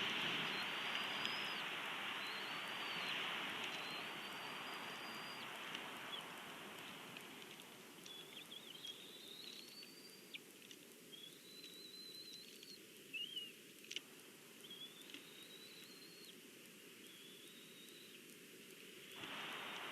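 A small bird singing, repeating a short, thin whistled note about every two seconds, over a steady outdoor hiss that fades after the first few seconds. A few faint clicks come near the middle.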